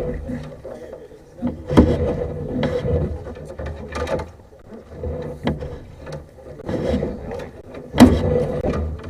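Sewer camera push cable being fed through a drain cleanout, rubbing and knocking irregularly against the pipe, with sharper clatters about two seconds in and near the end. A faint steady hum runs underneath.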